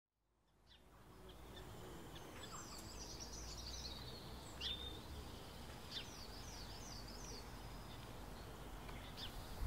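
Small birds chirping in two runs of quick, high, falling notes over a low steady outdoor rumble, fading in from silence.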